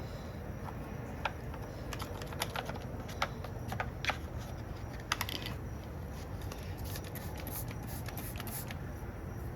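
Screwdriver scraping caked grime off a chainsaw's body: irregular scratches and small clicks, some strokes coming in quick runs.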